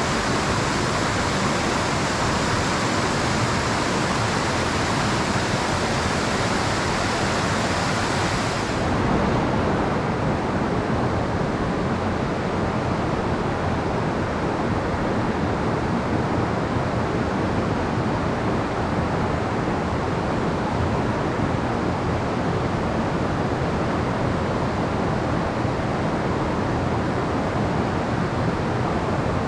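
Mountain stream water rushing steadily, a full-bodied noise that abruptly turns duller, with less hiss, about nine seconds in.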